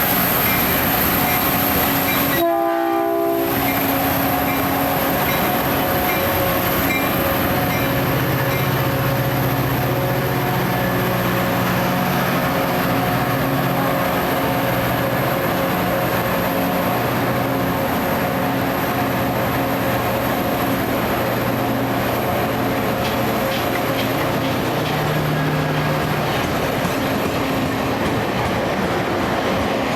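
A passenger train running on the rails: a loud, steady rumble and rush of noise with a few steady tones in it and some wheel clatter.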